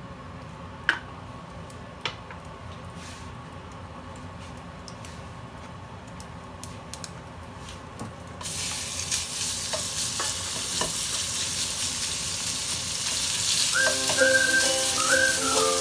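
Minced meat hitting hot oil in a nonstick wok, sizzling suddenly about halfway through and then frying steadily as a spatula stirs it. Before that, only a couple of light clicks over a quiet background.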